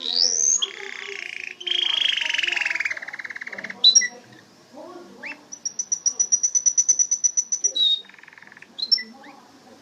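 Domestic canary singing: a rising whistled sweep, then buzzy rolling phrases, a fast high trill of repeated notes past the middle, a lower rattle, and short chirps at the end.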